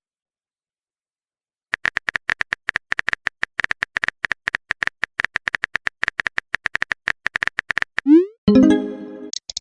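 Phone keyboard typing sound: rapid, uneven clicks of virtual keys for about six seconds after a short silence. Near the end, a message alert follows: a quick rising blip and a short electronic chime.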